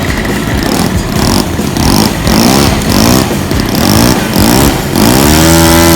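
Model airplane engine running loud and being revved up and down about four times, its pitch rising and falling with each throttle blip.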